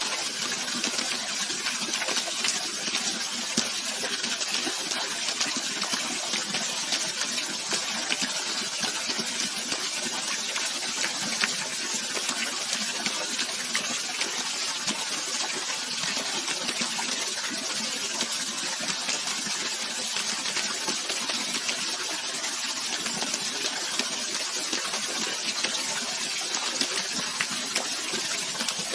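Steady rush and splash of running water, a stream or small cascade, hissy and bright with little deep rumble, unchanging throughout.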